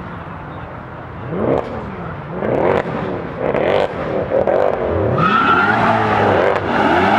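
A performance car's engine revved hard several times, its pitch rising and falling with each blip, getting louder through the second half.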